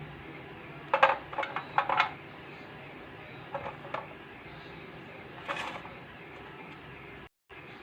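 Dry Multani mitti clay crunching and cracking in crisp clicks: a quick run of five or six about a second in, three more a few seconds later, then a short crackle, over a steady low hiss.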